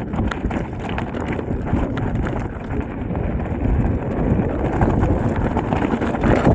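Wind buffeting an action camera's microphone as a steady low rumble, with many scattered clicks and knocks over it.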